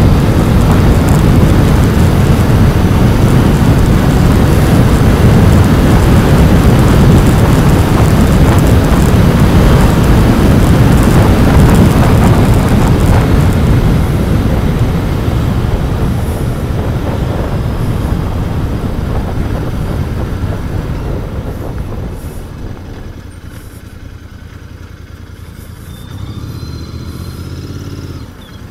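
Royal Enfield Continental GT 650's parallel-twin engine on its stock exhaust, heard while riding along at a steady pace. From about halfway through the bike eases off and slows, and the sound drops much quieter, with a short swell in engine sound near the end.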